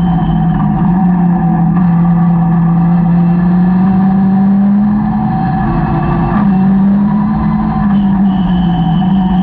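Caterham 620R's supercharged four-cylinder engine running hard under load, heard from the open cockpit. The note climbs slowly, dips briefly about five seconds in, picks back up, then slowly falls near the end.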